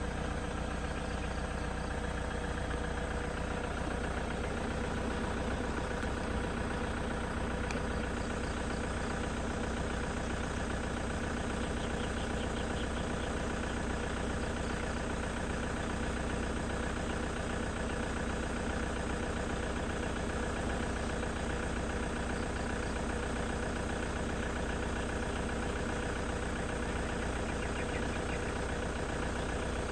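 An engine idling steadily with a fine, even pulsing.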